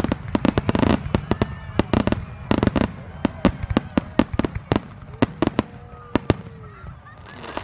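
Fireworks display with aerial shells bursting close by: a rapid run of sharp bangs and crackles, several a second, thickest in the first three seconds and thinning out toward the end.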